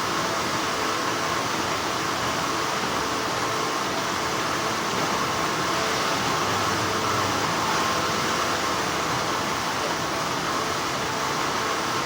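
Steady, continuous hum of textile factory machinery, an even noise with a few faint steady tones in it.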